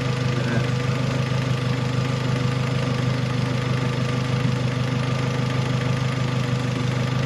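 Turbocharged Honda H-series VTEC four-cylinder, swapped into a Civic, idling steadily at operating temperature with the thermostat open. The idle is even, with a fine regular pulse and a steady hum.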